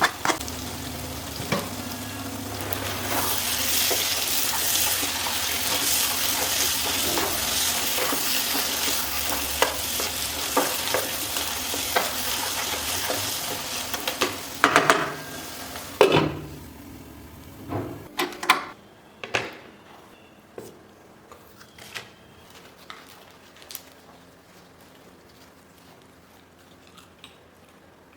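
Chicken manchurian sizzling in a pan as it is stirred, with the spatula clicking and scraping against the pan. The sizzle stops about 16 to 18 seconds in, leaving scattered light clinks of utensils.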